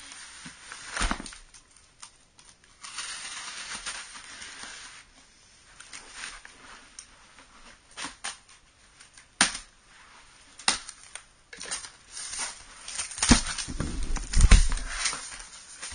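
Unboxing noises: a cardboard box and its packing being handled, with stretches of rustling, scattered clicks and knocks, and a few heavier thumps near the end.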